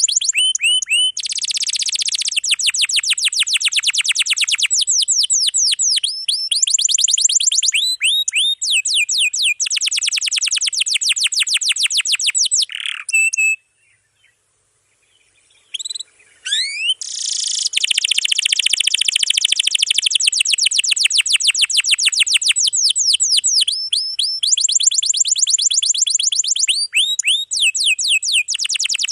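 Domestic canary singing long rolling trills of fast, high, repeated notes, broken by brief pauses, with a silent gap of a few seconds about halfway through.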